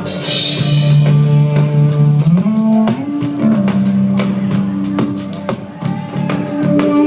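A band playing rock-style music: drum kit with a cymbal crash at the start and steady beats, guitar, and held low notes that slide up in pitch twice in the first few seconds.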